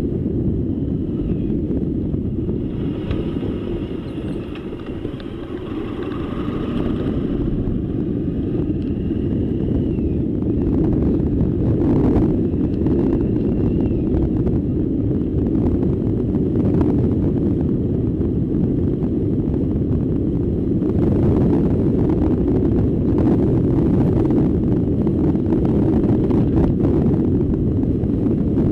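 Wind buffeting the microphone on a moving bike: a steady low rumble, with a brief lull about five seconds in.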